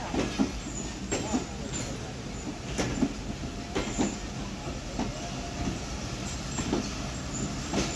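Broad-gauge intercity passenger train running, a steady rumble with irregular sharp knocks and clatter from the wheels and coaches.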